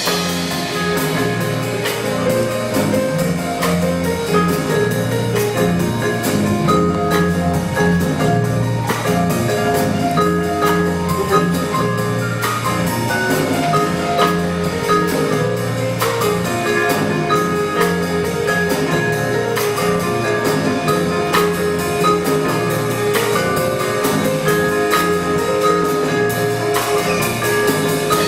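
A student jazz band playing live, with sustained pitched notes over a drum kit's steady beat.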